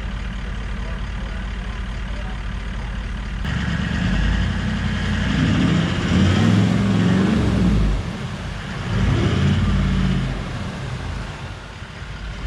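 Four-wheel-drive engine running steadily, then after a sudden change a few seconds in, revving hard in two long surges before easing off.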